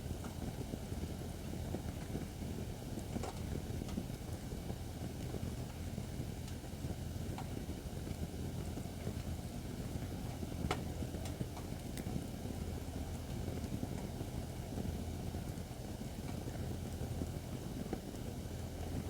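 Acacia firewood burning in a campfire stand: a steady low rush of flame with a few sharp crackles and pops scattered through.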